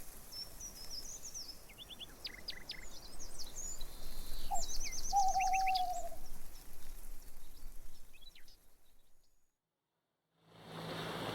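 Wild birds calling over a steady outdoor hiss: short high chirps, a quick run of rapid high notes about halfway through, and a lower drawn-out falling whistle. The sound fades out to silence near the end.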